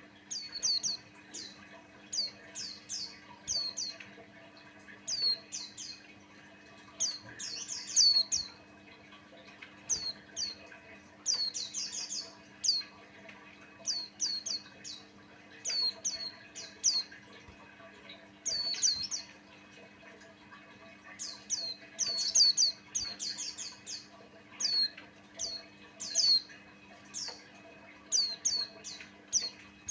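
White-eye (pleci buxtoni) singing: runs of short, high chirps, each sliding sharply down in pitch, repeated in quick clusters every second or so.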